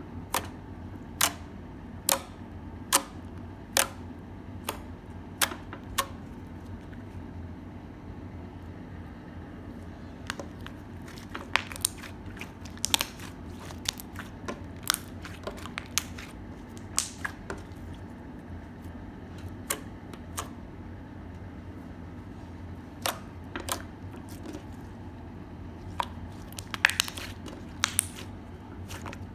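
Crunchy slime being played with, giving sharp clicking pops at irregular moments, sometimes in quick clusters, over a steady low hum. The pops pause for a few seconds near the middle and come thickest near the end.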